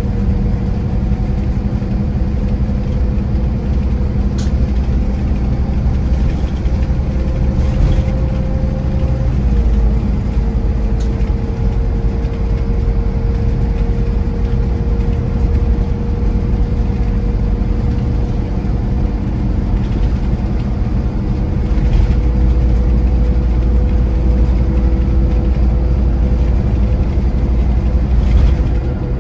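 Scania Irizar i4 coach running on the road: a steady engine drone and road rumble with a thin whine that drops a little in pitch about a third of the way in. The rumble grows heavier about two-thirds through, and a few faint knocks or rattles come and go.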